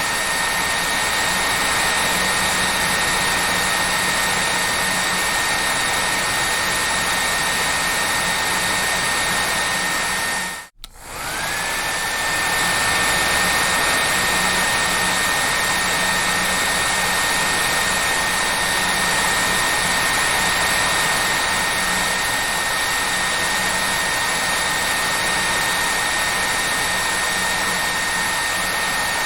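Hair dryer blowing with a steady rush of air and a high motor whine. About eleven seconds in it cuts out for a moment, then comes back, the whine rising as the motor gets up to speed.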